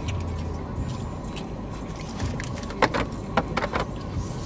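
Close-up chewing and mouth smacking on a bite of burger, with a few sharp smacks about three seconds in, over the steady low hum of a car cabin.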